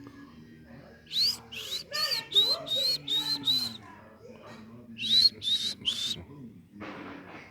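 Monkeys giving short, high-pitched whistled calls that each rise and curl over at the top: seven in quick succession, then three more after a pause. A brief rustling noise follows near the end.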